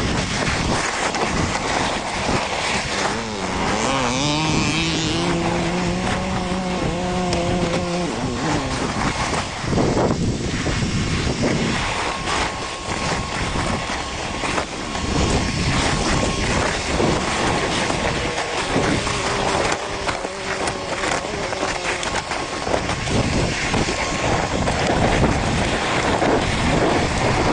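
Dirt bike engine running and revving off-road, under a steady rough rush of noise. The engine note is held and wavers in pitch between about three and eight seconds in, and comes through again more faintly around twenty seconds in.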